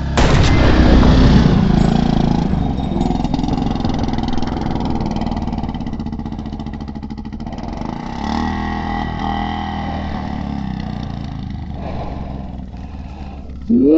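A dirt bike running and revving close by, loudest in the first two seconds, with its pitch changing again about eight seconds in.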